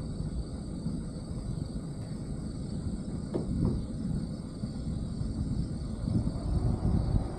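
Wind rumbling and buffeting on a roof-mounted camera's microphone, over a steady high insect chorus. A brief falling sweep comes about halfway through.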